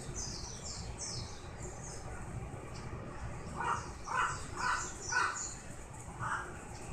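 A crow cawing five times, four calls about half a second apart and a fifth after a short pause, over the steady twittering of small birds with high falling chirps.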